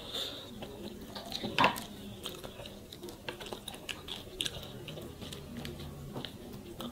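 Close-miked eating sounds of rice and fish curry eaten by hand: many small wet clicks and smacks of chewing, with one louder mouth sound about a second and a half in.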